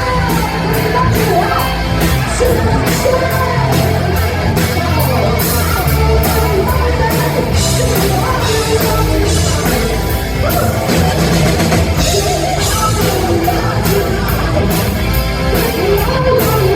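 Hard-rock band playing live at full volume: distorted electric guitar, bass and a steady drum beat, with a singer's voice over the top, echoing in a large room.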